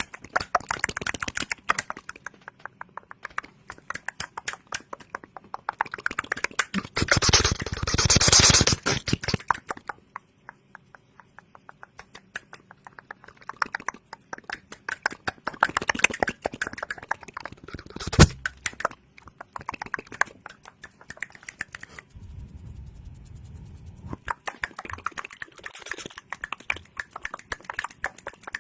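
ASMR mouth and hand sounds made close to the microphone: fast runs of clicks and taps, a louder rustling stretch about seven seconds in, and one sharp knock about eighteen seconds in.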